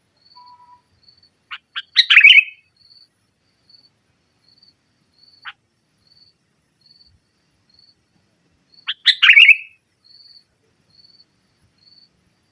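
Sooty-headed bulbul (kutilang) giving two loud chattering call bursts about seven seconds apart, each a couple of quick notes running into a harsh rapid phrase. Behind them a faint, short, high peep repeats about twice a second.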